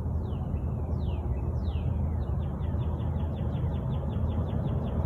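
A songbird singing: three high notes slurring downward, then a rapid trill of short high notes at about six a second. A steady low rumble underneath is louder than the bird.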